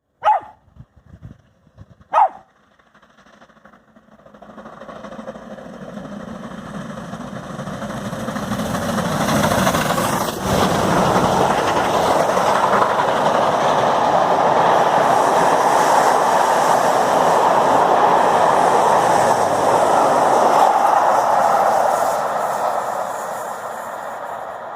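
Steam locomotive Braunton, a Bulleid West Country class Pacific, passing with its train: the noise of the engine and rolling wheels builds up, stays loud through the middle, then fades as it goes by. Two short sharp sounds come near the start, before the train is heard.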